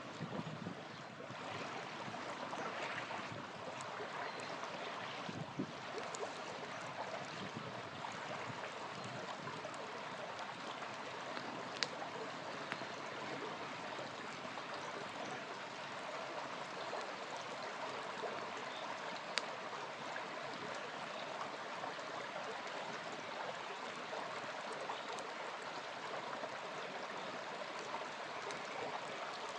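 A small river flowing steadily, with a few sharp pops from a crackling campfire.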